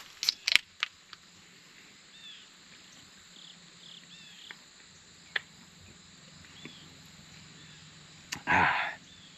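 Quiet rural outdoor ambience with faint, short bird chirps scattered through it. There are a few sharp clicks in the first second, another about five seconds in, and a brief louder rustling noise near the end.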